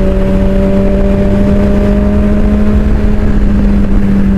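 Suzuki GSX-R600 inline-four engine running at a steady, unchanging pitch as the sportbike cruises, over a low rumble of wind on the microphone.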